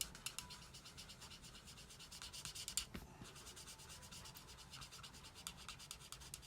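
Alcohol marker tip scrubbing quickly back and forth on card stock in many short scratchy strokes, laying colour over one spot again and again to darken it. There is a short break about three seconds in.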